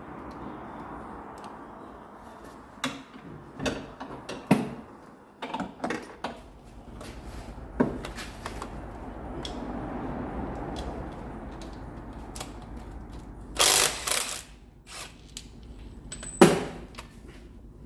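Scattered metallic clicks and knocks of hand tools at work on a car, over a steady background noise. A quick run of clicks about three-quarters through is the loudest, followed by a sharp knock.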